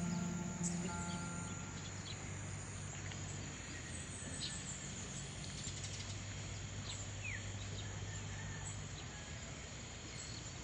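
Outdoor ambience: a steady background hiss with a faint low hum and scattered short bird chirps and insect calls, one rising chirp about seven seconds in. The last of a guitar music track fades out in the first two seconds.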